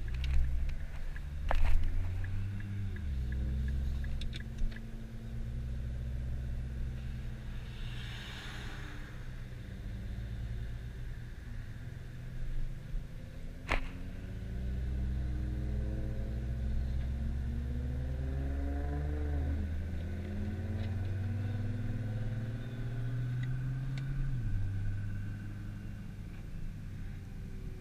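Nissan GT-R engine running at low revs, with a brief rev that rises and falls in pitch about two-thirds of the way through. There are a couple of sharp clicks and a short swell of hiss along the way.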